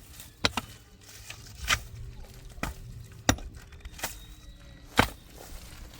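A series of sharp knocks and taps, about seven irregular strikes roughly a second apart, the loudest half a second in and near the end.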